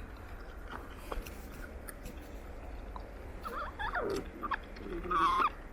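Two alpine marmots squabbling over a carrot: short, wavering squeaky calls about three and a half seconds in and again near the end, between faint clicks of chewing.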